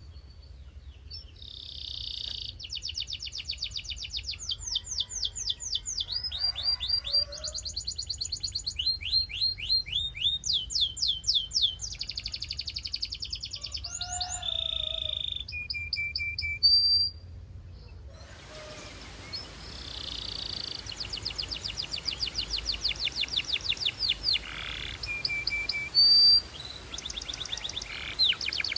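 Belgian canary singing a long song of fast trills, rapid runs of repeated notes that shift pitch from phrase to phrase, with a few short held whistles. The song breaks off for about a second partway through, then starts again.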